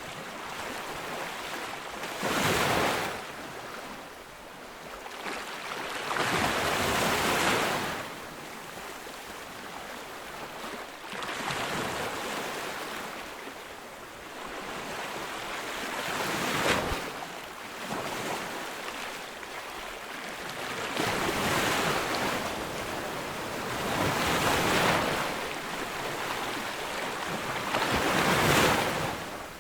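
Ocean surf: waves breaking on a beach one after another, each surge of wash rising and falling every four to five seconds over a steady hiss of water.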